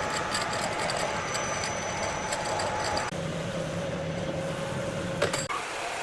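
Large sawmill saw machinery running steadily, with a held hum whose pitch drops a little about three seconds in and a single sharp knock near the end.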